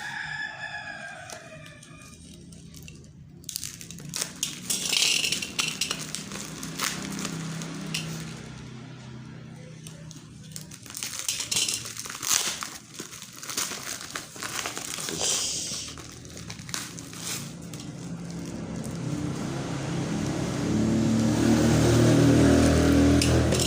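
Cardboard packaging and plastic wrap being opened by hand: repeated rustling, crinkling and clicking as the box is worked open. A rooster crows in the background right at the start, and a louder pitched, buzzing sound builds near the end.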